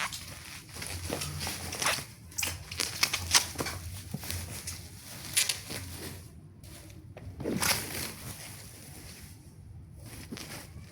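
Handling sounds of unboxing: packaging rustling, with scattered clicks and taps, busiest in the first half and quieter near the end.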